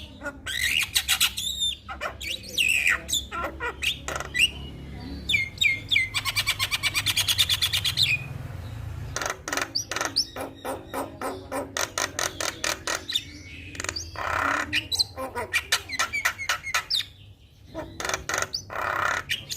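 Javan myna singing a varied song of whistled glides, harsh squawks and clicks, with a fast rattling trill for about two seconds near the middle.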